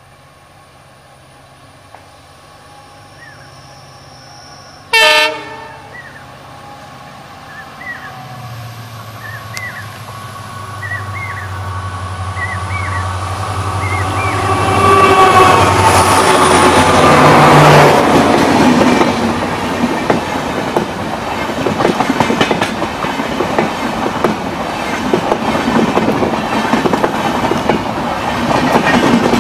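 EMD WDG4 diesel locomotive's 16-cylinder two-stroke engine running as it approaches, with a brief loud horn toot about five seconds in. The engine drone grows louder and drops away as the locomotive passes, then passenger coaches go by with a continuous clatter of wheels on the rails.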